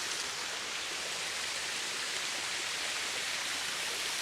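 Waterfall: falling water rushing steadily in an even hiss.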